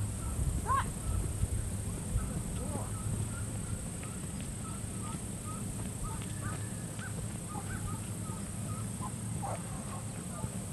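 Faint bird calls, short scattered chirps and a couple of clearer calls near the start, over a steady low rumble.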